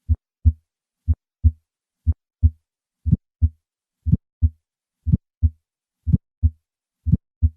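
Heart sounds at about one beat a second: a normal lub-dub (first and second heart sounds) for three beats. From about three seconds in, an early systolic ejection click follows closely on each first sound. Such a click places the obstruction at the aortic valve and strongly suggests a bicuspid aortic valve.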